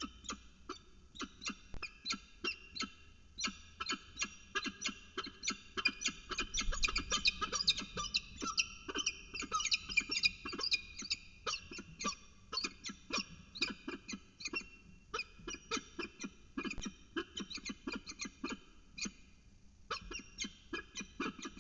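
Peregrine falcon at the nest box giving rapid short calls, several a second, growing denser and louder about a third of the way in, then thinning out.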